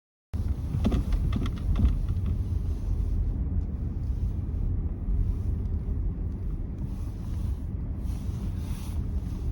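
Chevrolet Trailblazer on the move: a steady low rumble of engine and road noise that cuts in abruptly, with a few clicks in the first couple of seconds.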